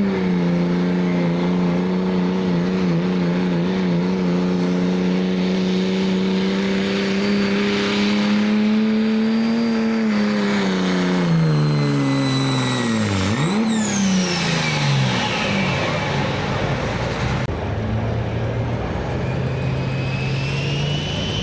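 Turbocharged diesel pickup engine pulling hard under a steady heavy load, then its engine speed sinks as the sled bogs it down. About 13 s in the driver lets off, the turbo whistle spools down, and the engine drops to a lower, steadier run.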